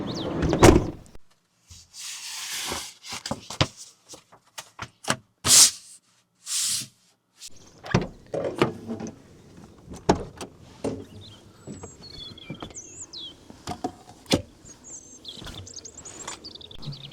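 Irregular knocks, clicks and short rustles of things being handled, with small birds chirping in the second half.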